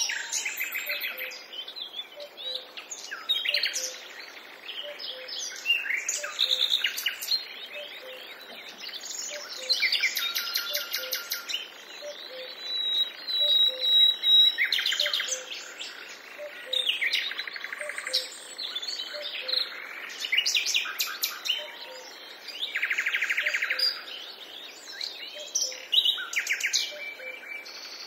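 Several wild birds calling and singing together: quick chirps and rapid trills overlapping throughout, with one held whistle near the middle.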